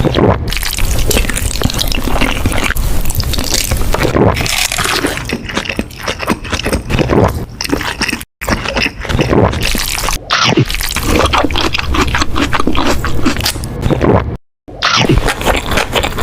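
Close-miked mukbang eating sounds: wet chewing, crunching and squishing of food, dense and continuous. Twice, about eight and fourteen and a half seconds in, the sound cuts out for a moment before the next clip.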